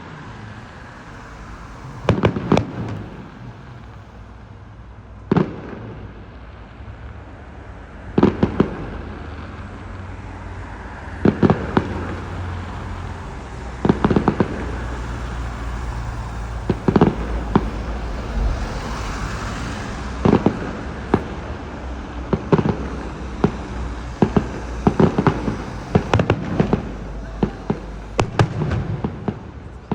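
Fireworks display: aerial shells bursting with sharp bangs, some alone and some in quick clusters, every second or two over a steady low rumble, the bangs coming thicker near the end.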